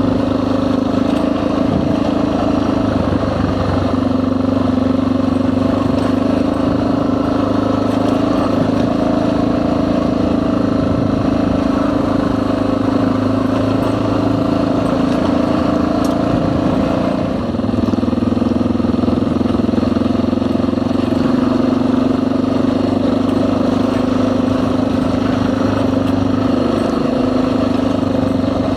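Dual-sport motorcycle engine running at a steady pace under way, easing off briefly about seventeen seconds in before settling back.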